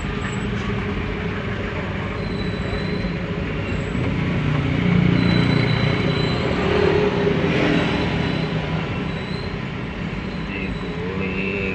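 Heavy diesel vehicle engine running steadily with a low hum, growing a little louder around the middle.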